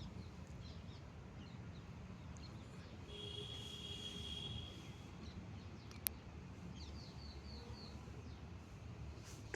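Small birds chirping faintly over a low, steady outdoor rumble, with a held high note a few seconds in and a run of quick chirps later on. One sharp click about six seconds in.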